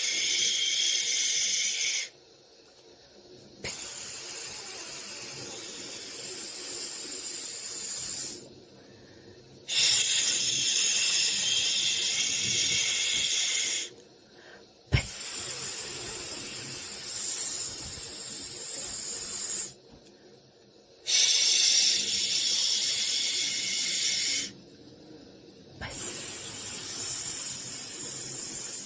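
Soothing white-noise hiss for babies, coming in bursts of two to five seconds with pauses of about a second and a half between them, like a long repeated "shhh".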